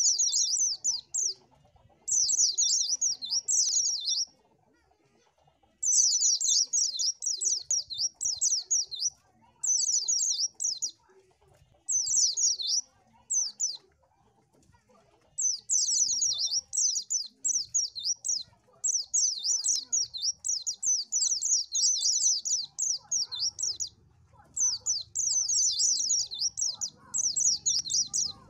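White-eye (pleci) song: rapid, high-pitched twittering chirps in phrases of one to several seconds, broken by short pauses.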